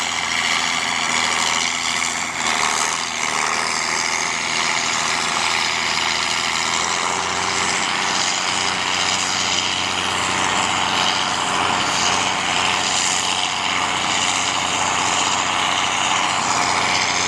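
A heavy engine running steadily with a constant drone and hiss, holding the same speed and load throughout.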